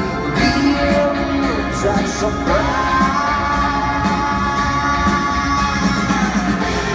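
Live rock band playing, with singing over the instruments and a long held note through the middle.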